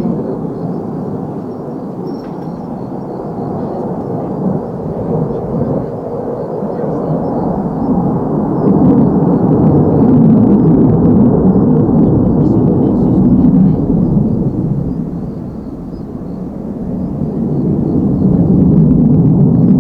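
Fighter jet engines heard from a distance as a deep, continuous rumble that swells, fades briefly near the end, and builds again.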